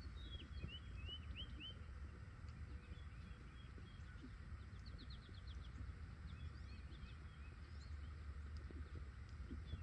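Small birds chirping in short curved call notes, with a quick trill of rapid notes about halfway through and more scattered chirps after, over a steady low rumble.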